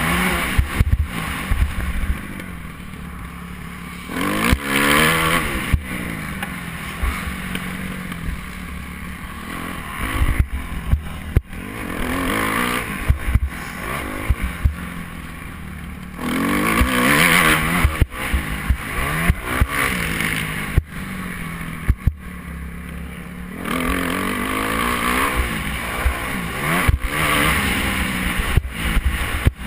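Motocross bike engine revving hard and easing off over and over, its pitch sweeping up several times, with frequent short low thumps.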